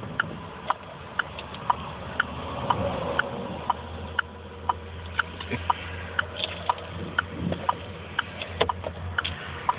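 Truck engine barely running at about 500 RPM, stuttering and not picking up as the gas pedal is pumped, its low note swelling only slightly. A steady ticking about twice a second runs over it, with a few irregular clicks.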